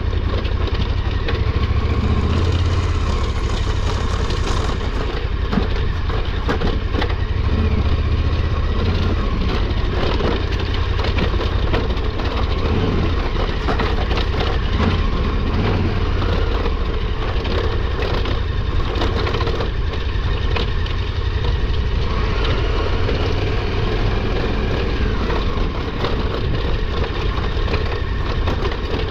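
KTM 1290 Super Adventure R's V-twin engine running steadily as the bike works over a rough, rocky trail, with irregular knocks and clatter throughout.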